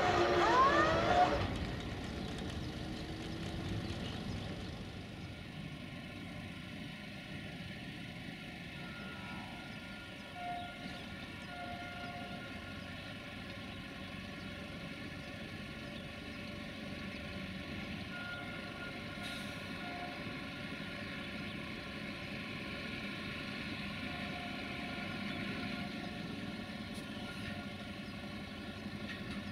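A loud wailing tone that rises and falls and ends about a second and a half in, then the faint, steady rumble of a distant approaching diesel railcar.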